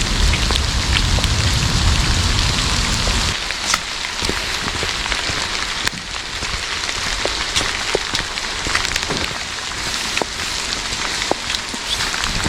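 Heavy rain falling steadily, with many individual drops clicking sharply close to the microphone. A low rumble underneath stops about three seconds in.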